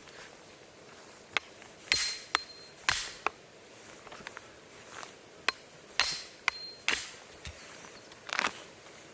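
A series of irregularly spaced sharp knocks, several of them with a brief metallic ring.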